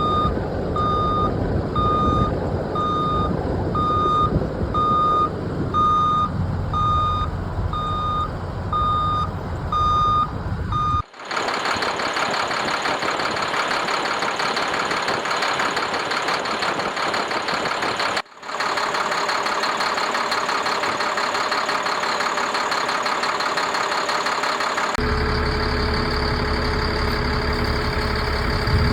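A dump truck's reversing alarm beeps steadily, about one beep every three quarters of a second, over its diesel engine running. After about eleven seconds the sound cuts to a steady hiss with no engine rumble, and in the last few seconds to the engine idling.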